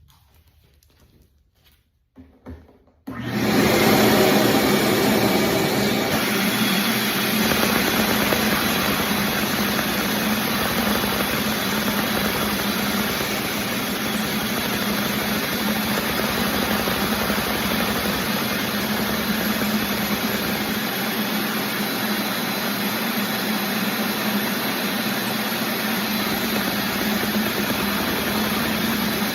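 Homemade model inline-four engine started up: a click, then about three seconds in a small motor starts abruptly and runs with a loud, steady whir and hum.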